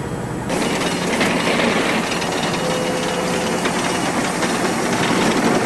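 A steam engine running with a steady hiss; the sound turns suddenly louder and brighter about half a second in.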